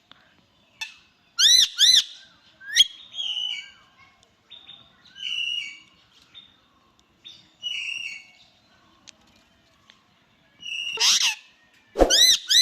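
Indian ringneck parakeet calling: sharp, arching screeches, two loud ones about a second and a half in and a loud cluster near the end, with softer chattering calls between.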